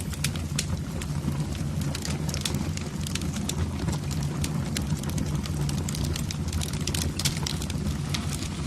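Wood fire burning in a fireplace: frequent, irregular sharp crackles and pops over a steady low rumble.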